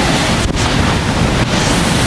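Strong wind from an EF-1 tornado blasting across the microphone: a loud, steady rush of noise.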